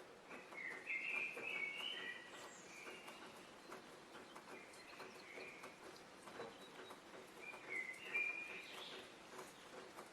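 A songbird singing short warbling, chirping phrases in three bouts: one near the start, one around the middle and one near the end, over a scatter of faint clicks.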